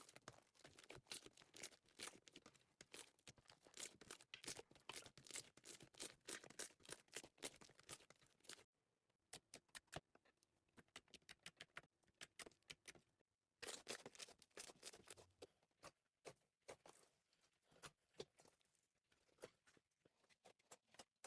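Slime being squeezed and kneaded by hand: a dense run of small clicks and pops. It stops abruptly about nine seconds in, giving way to sparse faint clicks, and a new dense run starts about thirteen seconds in, thinning out near the end.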